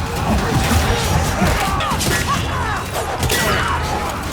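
Battle-scene soundtrack: crashes and heavy blows over a low rumble and a music score, with short shouts and cries through it.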